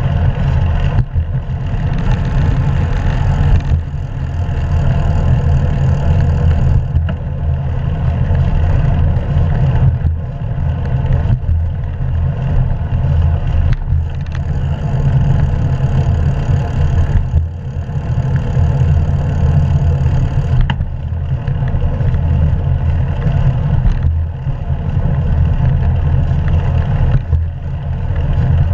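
Wind buffeting a GoPro action camera's microphone while riding a bicycle: a loud, steady low rumble with road noise mixed in, easing briefly every few seconds.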